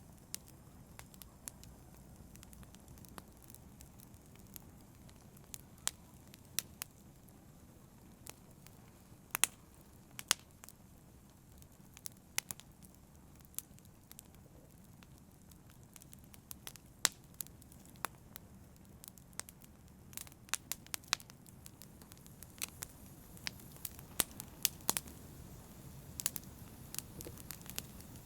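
Campfire burning: irregular sharp crackles and pops of burning wood over a low, steady rumble of the flames.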